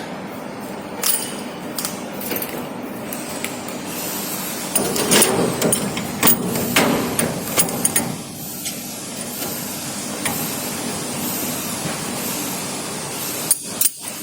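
Sharp metal knocks and clanks over a steady hiss, loudest about five to eight seconds in and again near the end, while a faint high tone falls over and over, about once a second.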